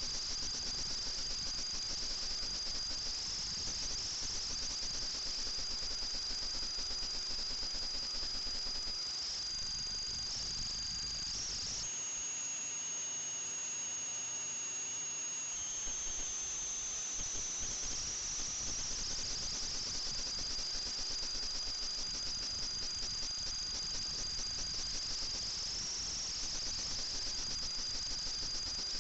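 FPV drone's brushless motors and propellers, a steady high-pitched whine. The pitch steps up about ten to twelve seconds in, holds higher for a few seconds, then slides back down, following the throttle.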